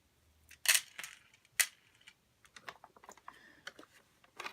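Hard plastic clicking and knocking as a robot vacuum's casing is handled and worked apart. Two sharp knocks come about a second in, followed by a run of small light clicks.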